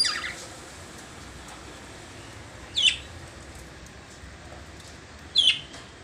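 Lovebirds giving three short, shrill calls about two and a half seconds apart, each a quick falling sweep.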